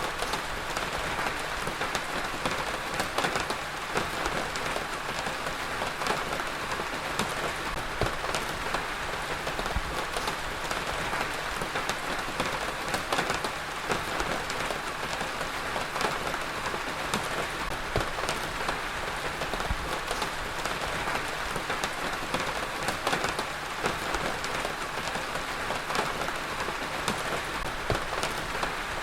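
Heavy rain falling steadily, a dense hiss with many close individual drop impacts on a surface.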